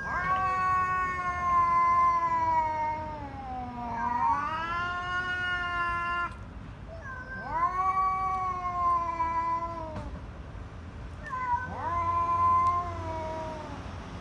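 Domestic cat yowling in long, drawn-out, wavering calls, three of them with short pauses between. The first sags in pitch and climbs again about four seconds in. It is a territorial caterwaul, a cat warning another cat off its ground.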